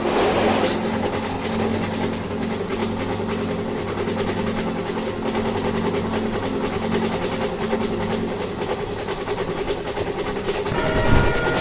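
Train running with a steady engine drone and rail noise, then its horn sounds near the end as one held, multi-tone blast.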